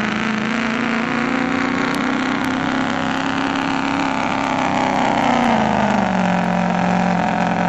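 Diesel pickup truck engine running hard at high revs under load in a truck pull, with a steady pitch that sags about five seconds in as the engine is pulled down.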